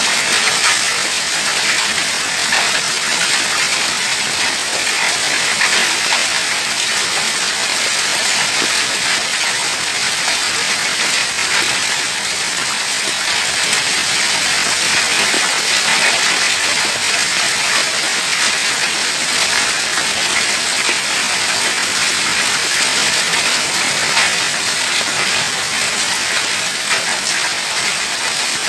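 Hailstorm: hailstones and rain pelting down in a dense, steady clatter of countless small impacts.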